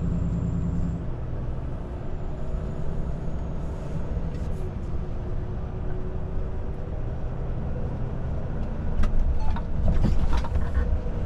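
Volvo FH 500 truck's diesel engine running under way with road noise, heard inside the cab; the engine note changes about a second in. A few short clicks come near the end.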